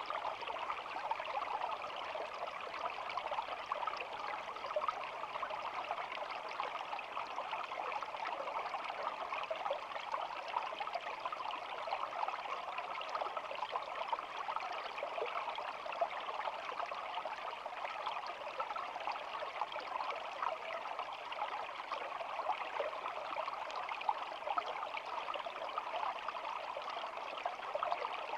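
Small shallow stream flowing steadily: a constant babble of running water full of tiny splashes and trickles.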